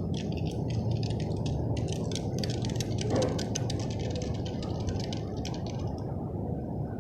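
Chevrolet 6.0-litre (364 ci) Vortec V8 running under way through a muffler-deleted exhaust that dumps under the cab, a steady low rumble. A rapid clicking rattle runs over it and stops about six seconds in.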